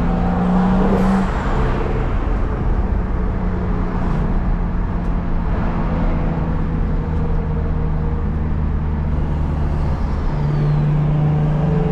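BMW N55 turbocharged inline-six in an F10, fitted with a home-built intake, running steadily while driving. About ten seconds in, the engine note steps to a new pitch and gets a little louder.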